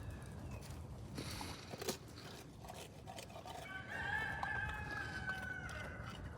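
A rooster crowing once, one long call of about two seconds in the second half. A few short clicks come earlier.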